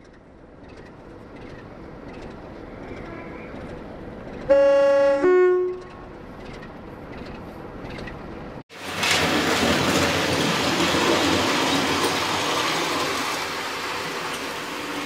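A train's rumble swells gradually. About a third of the way in, a train horn sounds a loud two-note blast lasting just over a second. After a sudden break, a steady rushing running noise of a train on the move takes over.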